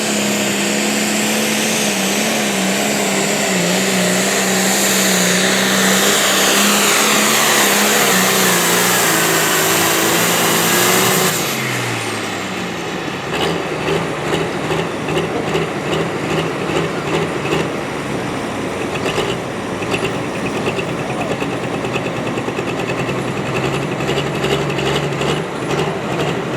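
A pulling vehicle's engine running at full throttle down the track, with a loud hiss over the engine note. About eleven seconds in it comes off the throttle and the pitch falls away. It then runs slowly with a regular lumpy pulse of about two beats a second.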